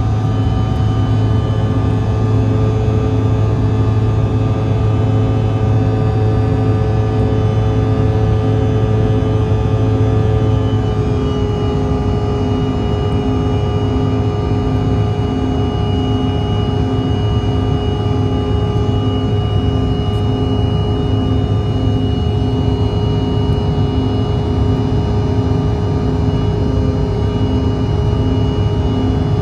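Cabin drone of a CRJ-900's rear-mounted GE CF34 turbofans during the climb, a steady roar with a whining hum. About eleven seconds in, the engine note drops slightly and settles, and a thin high whine comes in.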